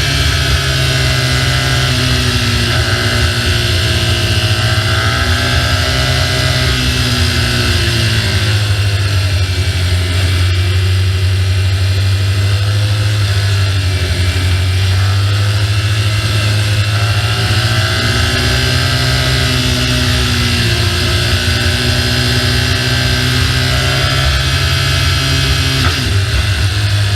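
BMW R1200GS boxer-twin engine running while riding, its pitch rising and falling as the throttle opens and closes, under a steady rush of wind noise.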